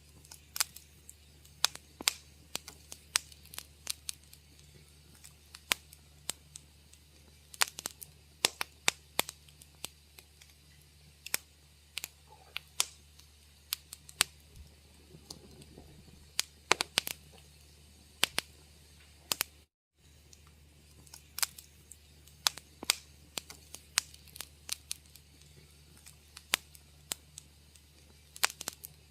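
Wood fire crackling in a fireplace: irregular sharp pops and snaps, several a second, over a low steady rumble. The sound cuts out to silence for a fraction of a second about two-thirds through.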